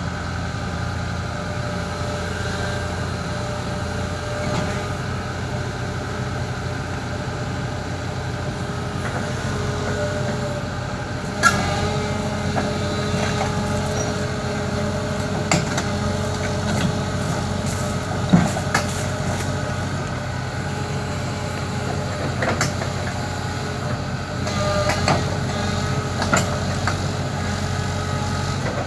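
Kobelco SK140 crawler excavator's diesel engine running steadily. From about a third of the way in come sharp metallic clanks and short squeals, several of them spread over the rest of the stretch.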